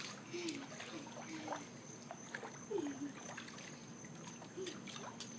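Faint water at a waterfall swimming hole, trickling and splashing, with scattered clicks and distant voices.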